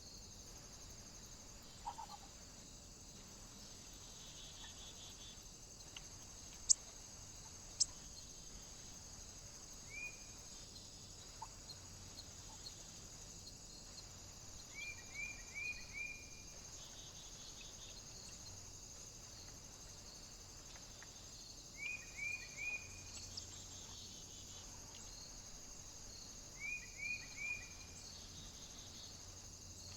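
Small bird calling at intervals: short chirps in quick runs of three or four, over a steady high hiss. Two sharp clicks sound about seven and eight seconds in.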